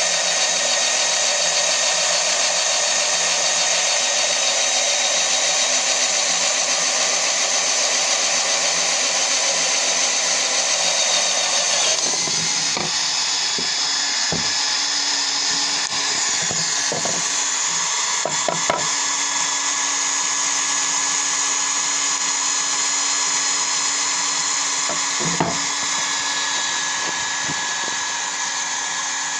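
Homemade drill press driven by a cordless screwdriver's 12-volt motor, running steadily with a whine. About twelve seconds in, its sound changes, and scattered knocks and taps follow through the rest.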